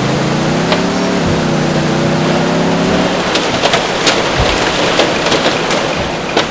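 Heavy rain and hail pelting a car, a dense steady rush broken by many sharp ticks of individual stones. Under it the car's engine note rises over the first second as it speeds up, then holds steady.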